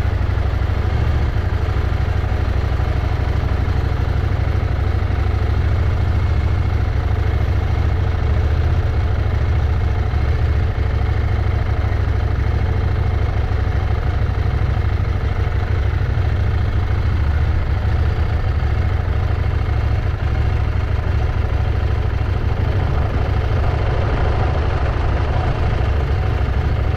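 Motorcycle engine running steadily on the move, a heavy low rumble that does not let up.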